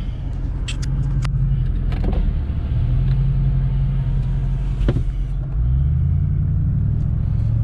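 Jeep SRT8 V8 with a Gibson cat-back exhaust heard from inside the cabin while driving: a steady low exhaust drone. Its pitch steps up and it grows louder about five and a half seconds in. A few short clicks come in the first second or so.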